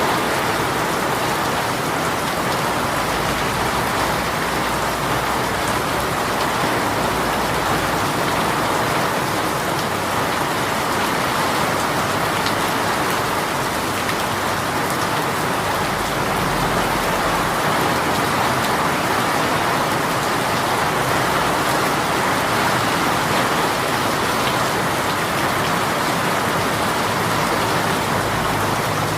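Heavy rain shower falling steadily, an even hiss of rain on surfaces.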